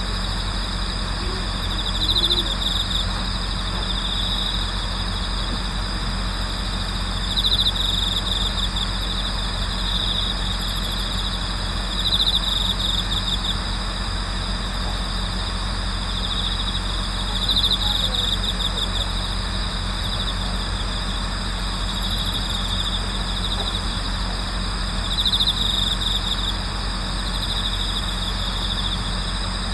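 Night chorus of autumn crickets calling continuously, with a louder trill, typical of a bell cricket, repeating about every five seconds, over a steady low rumble.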